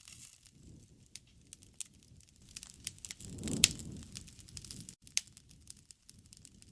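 Wood fire crackling, with scattered sharp pops over a low rush of flame. About three and a half seconds in the flame rush swells and the loudest pop snaps, with another sharp pop a couple of seconds later.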